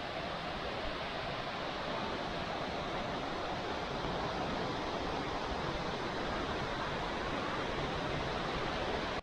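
Waterfall water rushing steadily, an even, unbroken hiss of falling water.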